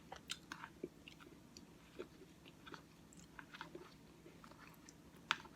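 Close-miked chewing of a mouthful of oatmeal with Cookie Crisp cereal: quiet, scattered wet mouth clicks, with one sharper click near the end.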